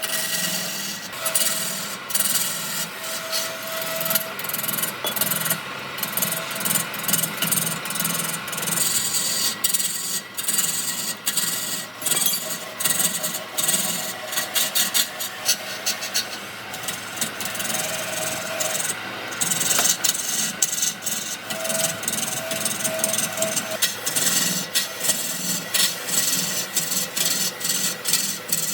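Wood being worked by hand: rapid, repeated scraping strokes of a tool rubbing across the wood surface.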